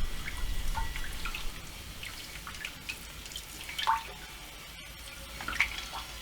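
Irregular drops of caustic soda solution dripping off an aluminium part lifted out of the etching bath, each drop a short plink, two of them louder about four and five and a half seconds in.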